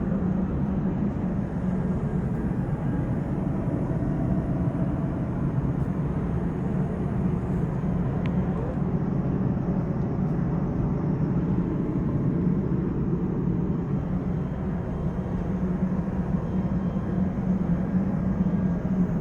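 Steady cabin drone inside an Airbus A350-900 airliner, from its engines and the airflow, with a constant low hum.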